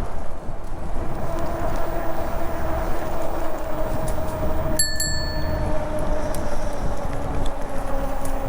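Riding noise from a bicycle: a steady hum that slowly drops in pitch, over a low rumble. There is a brief metallic ding about five seconds in.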